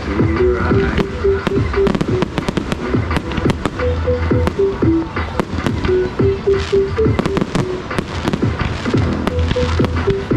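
Fireworks exploding in rapid, irregular bangs and crackles throughout, over loud music with a repeating melody and bass.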